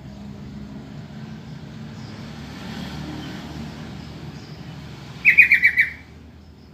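Sooty-headed bulbul (trucukan) giving a quick run of about five sharp notes a little past five seconds in, over a low steady background rumble.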